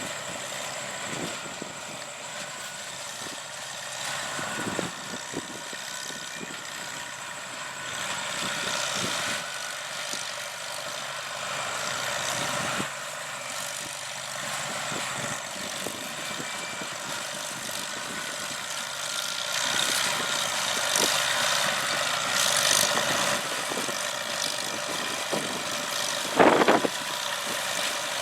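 The hay baler's International Harvester Cub engine runs steadily while the baler works. A sharp, loud knock comes near the end.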